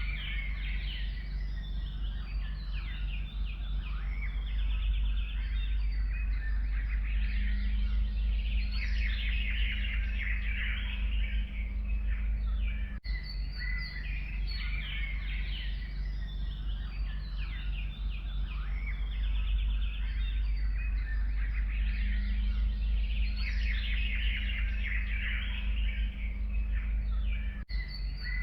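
Several songbirds chirping and trilling together over a steady low rumble. The same stretch of recording repeats about every fifteen seconds.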